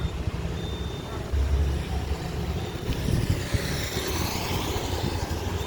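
Airbus A321 jet airliner on final approach passing close overhead: a steady low engine rumble under a hiss whose tone sweeps as it goes by, strongest about two-thirds of the way through.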